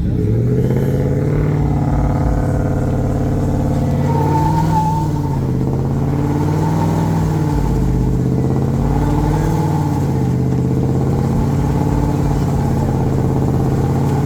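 Vehicle engine held at high, fairly steady revs, its pitch wavering slightly up and down, with a thin wavering higher tone coming in about four seconds in.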